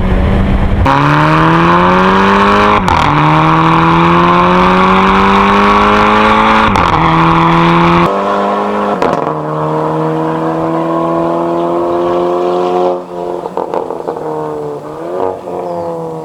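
Volkswagen Golf R Mk6's 2.0-litre turbocharged four-cylinder through an Armytrix valvetronic exhaust, accelerating hard: the engine note climbs and drops at two upshifts, about three and seven seconds in. It then settles to a steady pull, eases off with a quick rev blip near the end, and fades.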